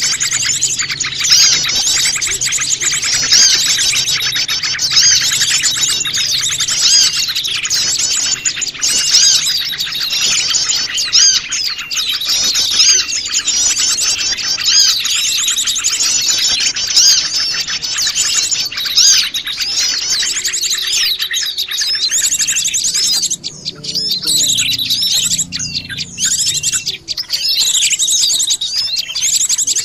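A noisy chorus of many small wild songbirds chirping and trilling over one another, a mixed-species recording played as a bird lure. The calls are dense and fast throughout, thinning slightly in the last third.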